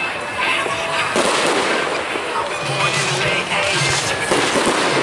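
Fireworks display going off, with rapid crackling pops throughout and the odd louder bang, over crowd noise.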